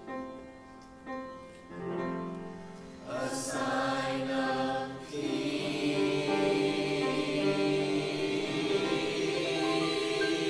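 High school choir singing with the concert band in a holiday piece: a few short chords, then from about five seconds in one long, loud chord held through to the end.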